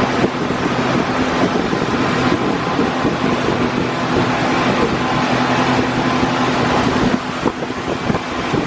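Motorboat engine running steadily under way, with wind on the microphone and rushing water.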